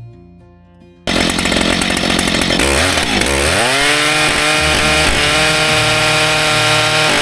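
Big chainsaw driving a Panther Horizon chainsaw mill's 74-inch bar, starting loud about a second in at high revs. The revs drop sharply, then climb back and hold steady before the sound cuts off suddenly near the end.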